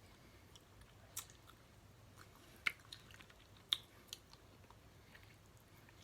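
Close-up mouth sounds of someone eating snow crab legs: quiet chewing with a handful of sharp clicks, the two loudest a second apart near the middle.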